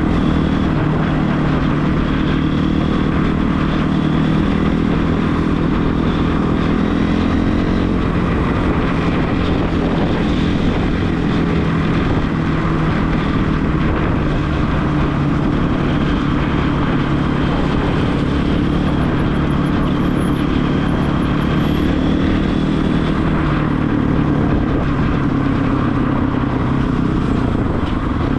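Regulmoto TE enduro motorcycle engine running steadily while riding.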